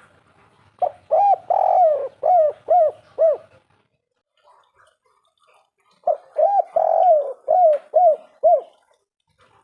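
Spotted dove (derkuku) cooing its 'kuk 3' song twice. Each phrase is a few drawn-out coos ending in three short 'kuk' notes, the second phrase coming about three seconds after the first.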